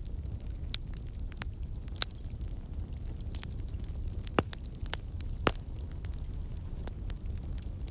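Wood fire in a fireplace crackling: scattered sharp pops over a steady low rumble, with a louder pop about four and a half seconds in and another about five and a half seconds in.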